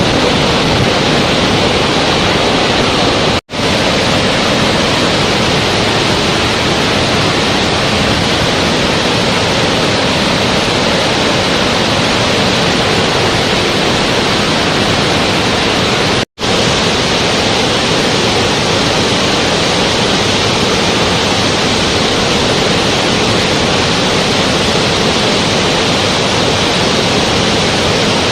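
Steady, loud rushing noise with no tone or rhythm, cut off for an instant twice: about three and a half seconds in and about sixteen seconds in.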